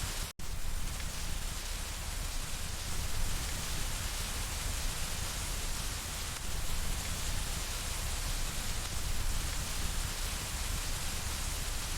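Steady rain falling and hitting window glass, an even hiss with no separate drops standing out. The sound cuts out for an instant about half a second in, then resumes.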